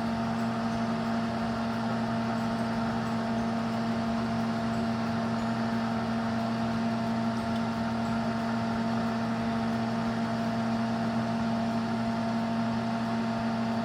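Kitchen exhaust fan running: a steady electric-motor hum over an even airy hiss.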